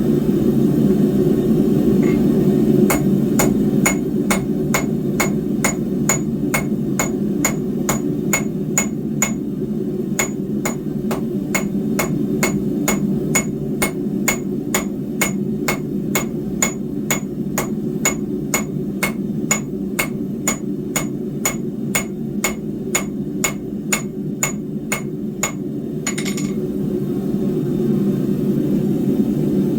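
Hand hammer striking steel bar stock on an anvil, about two blows a second for over twenty seconds, each with a bright metallic ring, over the steady rushing noise of the forge. The blows stop a few seconds before the end.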